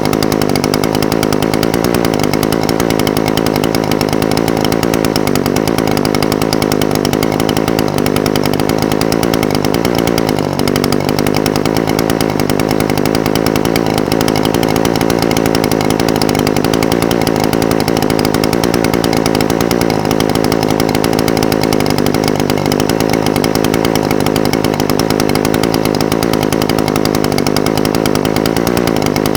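Echo SRM-420TES brush cutter's two-stroke engine idling steadily, its pitch wavering only slightly.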